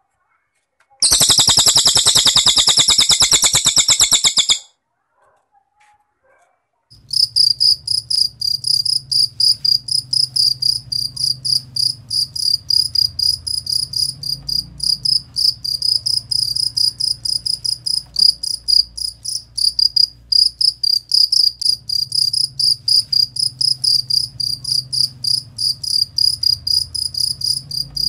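A cililin's fast buzzy trill lasting about three and a half seconds, then a cricket chirping steadily, about three chirps a second, over a low hum.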